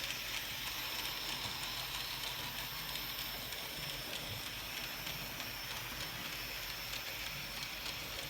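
Märklin model train running on its track: a steady, faint whir and rattle of the locomotive's motor and wheels. The locomotive has no sound effects.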